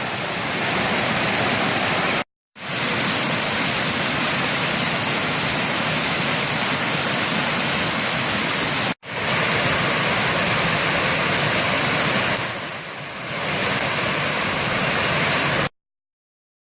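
Morgan Falls waterfall rushing in a loud, steady roar of falling water. It breaks off in two brief drop-outs and stops abruptly about a second before the end.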